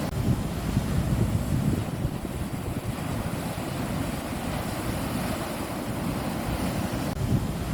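Wind buffeting the microphone, a gusty rumble, over the steady rush of sea surf.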